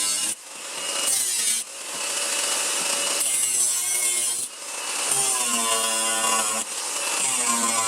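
A handheld electric power tool working sheet-steel body panel in a series of passes. Its motor tone wavers under load and briefly drops away between passes, about four times.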